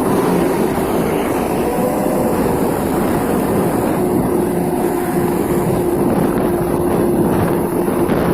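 Truck engine running steadily through a loud aftermarket 'serigala' exhaust, with a faint steady tone coming in about halfway through.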